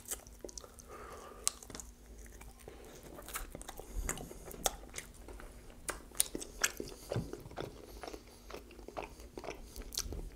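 Close-miked chewing of rotisserie chicken: irregular wet mouth clicks and smacks as the meat is bitten and chewed.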